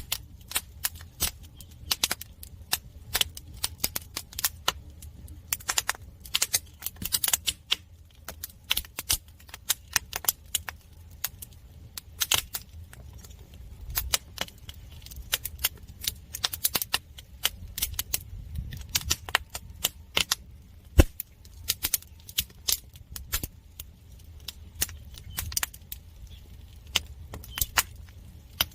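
Firewood burning in a traditional Korean agungi firebox: irregular sharp crackles and pops over a low steady rumble, with one louder pop about two-thirds of the way through.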